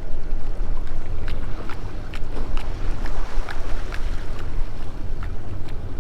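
Strong wind buffeting the microphone on a drifting boat, a heavy low rumble, with scattered light ticks and taps at uneven intervals.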